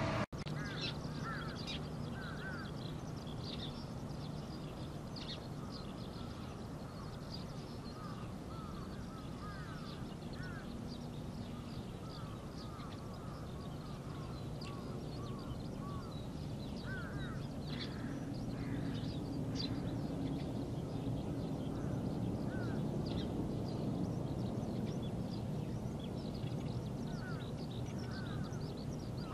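Birds calling in short, repeated calls scattered throughout, over a steady low background rumble.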